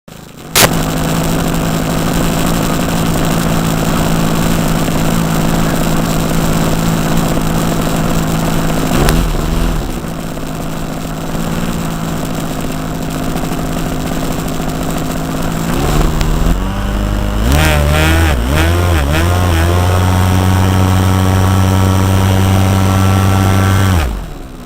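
OS .46 AX two-stroke glow engine of an RC model airplane running with its 11x7 propeller, heard close up from a camera on board the model. The note holds steady, wavers briefly about a third of the way in, swings up and down several times about two-thirds of the way through, holds steady again, then drops off sharply near the end as the throttle comes back.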